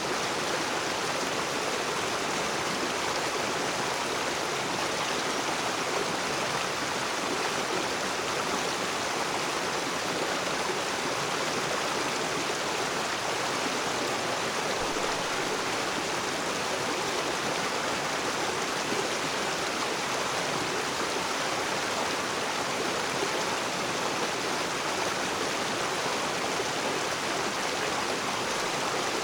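River water rushing and splashing over rocks: a steady, even rush that does not change.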